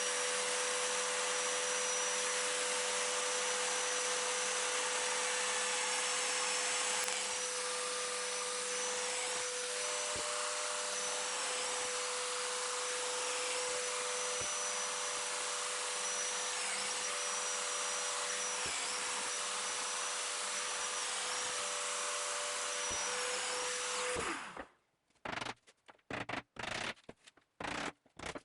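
Power joiner running steadily with a dust extractor while cutting the joints between the jig's braces, its motor pitch dipping briefly every few seconds as each plunge cut takes load. Both stop suddenly near the end, leaving scattered light scratching and handling knocks.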